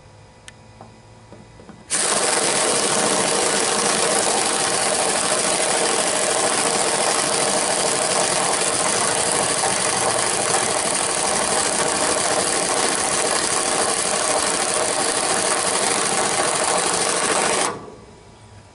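A power tool runs steadily for about sixteen seconds, switching on abruptly about two seconds in and cutting off shortly before the end.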